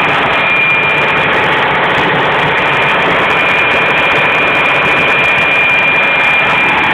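Ship's diesel generator engine running steadily in the engine room, a loud even drone with a thin high whine held throughout.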